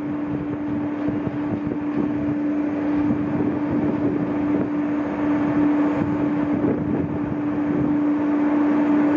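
NS VIRM double-deck electric train passing by, a rolling rumble with a steady low hum from its electrical equipment.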